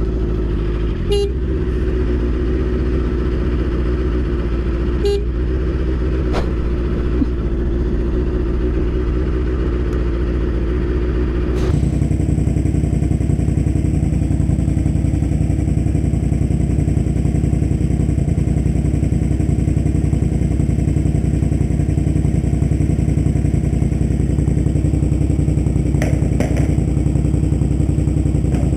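Motorcycle engine running steadily, with a few short clicks in the first few seconds. About twelve seconds in the sound changes abruptly to a different, fuller steady motorcycle engine hum.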